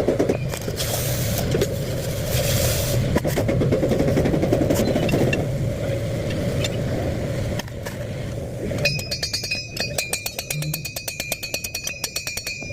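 A machine running with a steady mechanical noise. About nine seconds in it changes to a fast, even rattle with a thin steady whine.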